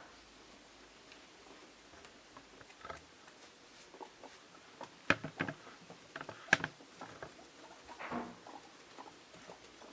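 Guinea pigs moving about in their enclosure: scattered light pattering taps and rustles, with a few sharper clicks about five and six and a half seconds in.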